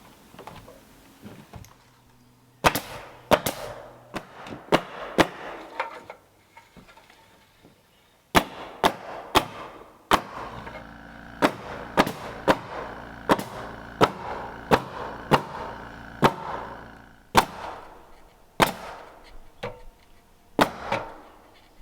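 Sharp knocks on wood in irregular runs of several strikes, often about half a second to a second apart, with short pauses between runs, as plywood goes onto a timber roof frame.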